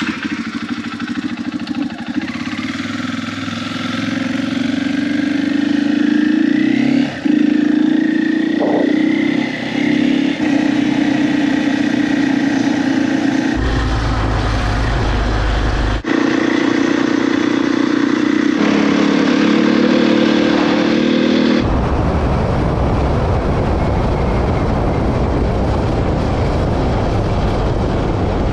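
Motorcycle engine running as the bike rides off and picks up speed. A steady engine note rises a little over the first few seconds. Heavy wind rumble on the microphone takes over for a few seconds past the middle and again over the last several seconds.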